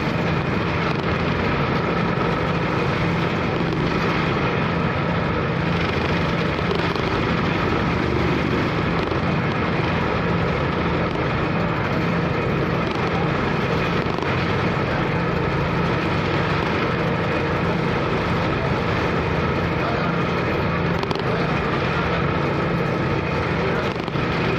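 Car ferry's engine running steadily: a constant low hum under an even wash of wind and wave noise.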